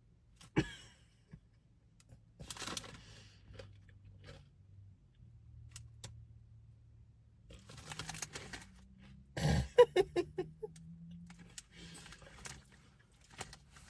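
Potato crisps crunching, in a few separate bursts as a chip is bitten and chewed. Around ten seconds in there is a short run of pitched, muffled sounds.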